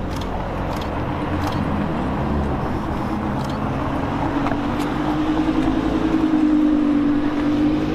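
Lamborghini Huracán's V10 idling: a steady low rumble with a hum that grows louder over the last few seconds.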